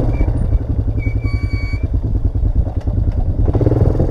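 Honda Recon 250 ATV's single-cylinder engine running steadily at low speed, with a brief high-pitched squeal about a second in.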